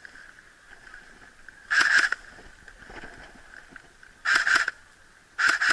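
Three short bursts of airsoft rifle fire, each a rapid string of shots lasting well under half a second: one about two seconds in, one about four seconds in, and one near the end.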